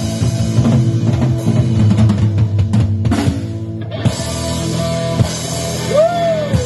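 Live rock band playing an instrumental stretch with drum kit, electric guitar and bass, with a single sliding note near the end.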